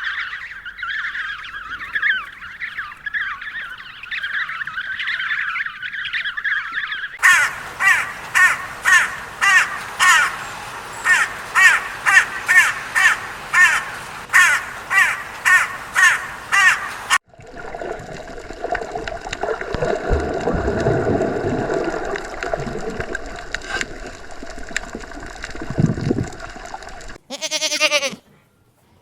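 A series of different animal calls one after another: continuous chirping, then about ten seconds of loud, harsh calls repeated roughly twice a second, then a lower, noisier stretch, and a short bleat-like call near the end.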